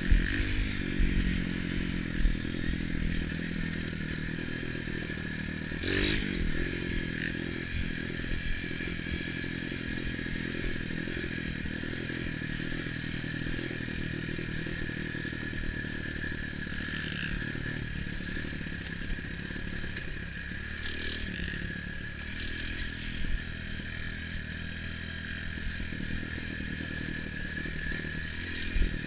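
Off-road trail motorcycle engines running, with some clatter and a sharp knock about six seconds in.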